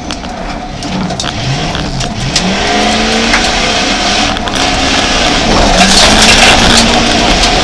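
Jeep Grand Cherokee engine heard from inside the cabin under rally driving, its revs rising and falling several times as it accelerates and shifts, with sharp ticks of gravel against the body and a louder rush of tyre and gravel noise from about halfway.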